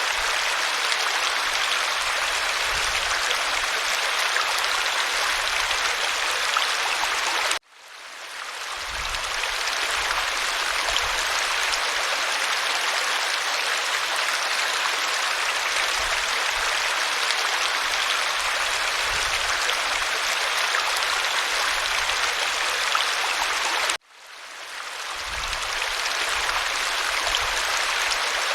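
Waterfall, a steady rush of falling water. It cuts out abruptly twice, about eight seconds in and again near the end, and each time fades back in over a second or two.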